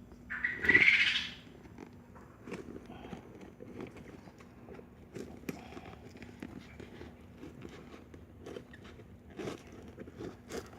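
Package being unboxed by hand: a loud, noisy scrape or rip lasting about a second near the start, then scattered light clicks and taps of packaging being handled.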